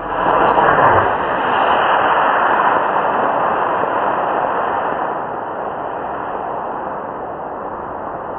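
Model rocket's C6 black-powder motor firing at liftoff: a sudden loud rushing hiss, strongest in the first second, then a steady rush that drops away near the end.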